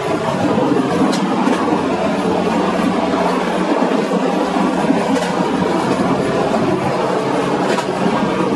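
Passenger train running at speed: a steady rumble of wheels rolling on the track, with a few faint clicks from the rails.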